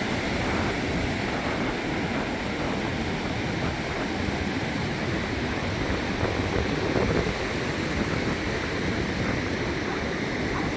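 Sea waves breaking and washing up a sandy beach: a steady surf hiss that swells slightly about seven seconds in.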